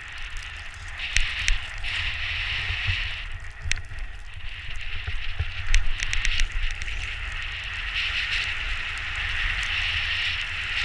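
Outdoor forest ambience: low wind rumble on the microphone under a high hiss that swells and fades every second or two, with scattered crackling clicks, a cluster of them about five to six seconds in.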